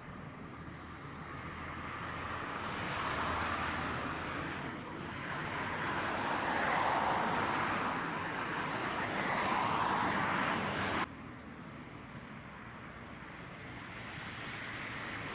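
Road traffic: vehicles passing one after another, the noise swelling and fading several times, then cutting off abruptly about eleven seconds in.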